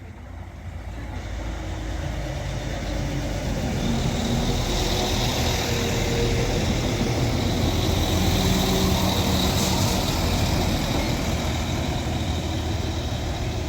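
A Northern Class 195 diesel multiple unit pulling into the station: engine hum and wheel noise that grow louder over the first few seconds, then hold steady as the train draws in.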